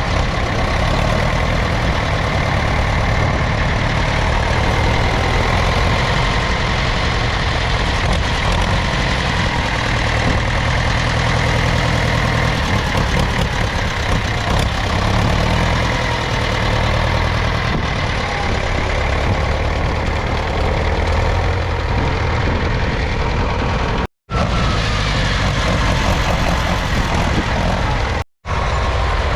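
1969 Same Leone 70 tractor's 3.4-litre four-cylinder diesel engine running steadily. The sound cuts out briefly twice near the end.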